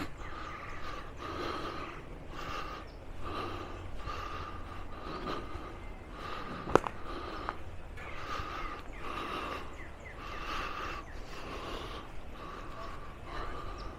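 Footsteps of someone walking at a steady pace, a soft crunch with each step, with a single sharp click about seven seconds in.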